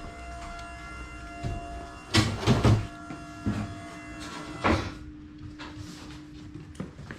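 Irregular knocks and clatter of parts and tools being handled during a furnace change-out, loudest in a quick cluster a couple of seconds in, over a steady hum.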